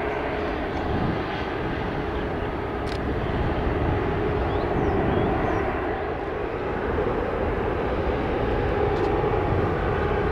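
Jet airliner engines running steadily: a broad rush with a held whine.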